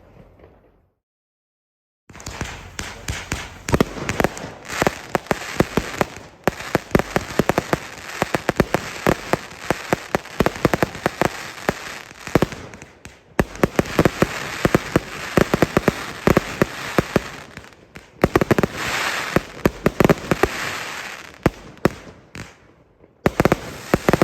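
A barrage of consumer firework cakes from the Vivid Pyrotechnics Asylum pack, with 20 to 30 mm tubes, firing rapid volleys of shots over continuous crackling. The shots start after a brief silence about two seconds in, and a last burst comes near the end after a short lull.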